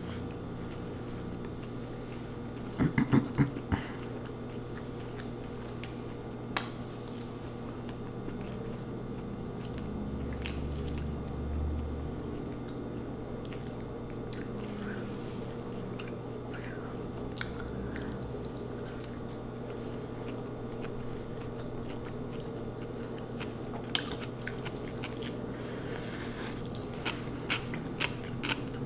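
Close-miked chewing and biting of lo mein noodles and crunchy vegetables, with a quick cluster of sharp clicks about three seconds in and a few lone clicks later, over a steady low hum.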